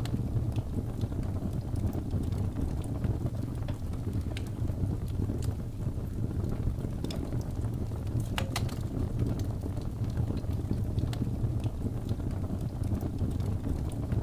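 Wood fire burning with a steady low rush, sharp crackles and pops scattered through it, one louder pop about eight and a half seconds in.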